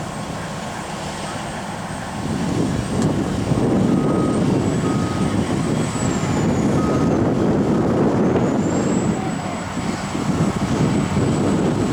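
Diesel engine of a Hydrema 912HM water truck running, growing louder about two seconds in and easing off near the end, with four short beeps in a row in the middle.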